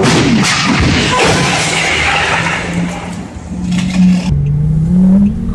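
Car engine running hard under a loud rushing noise of tyres and wind for the first few seconds, then holding a steady note that climbs a little near the end.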